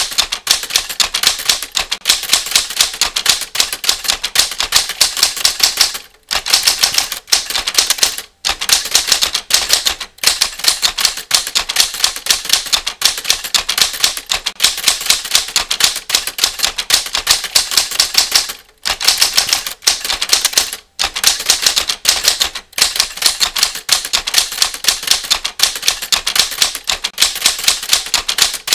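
Typewriter keystroke sound effect: a rapid, continuous run of key clicks, broken by a few short pauses.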